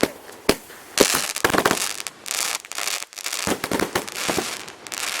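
Consumer multi-shot firework cakes going off: a string of sharp bangs at uneven intervals, with crackling between them.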